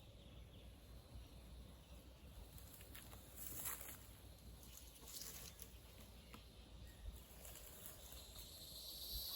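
Near silence: faint outdoor background with a low rumble and a few soft rustles and clicks, one brief hissy swell about three and a half seconds in.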